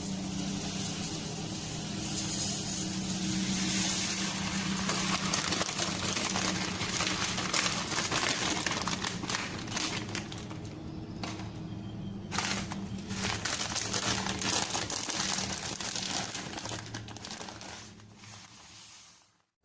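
Plastic packet of corn rice crinkling and rustling as it is handled, with dense fine crackles over a steady low hum. It fades off near the end.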